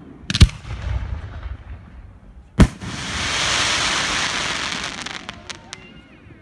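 Aerial firework shells bursting: two sharp bangs about two seconds apart, the first followed by a low rumble. After the second comes a long hiss lasting a couple of seconds, ending in a few scattered pops.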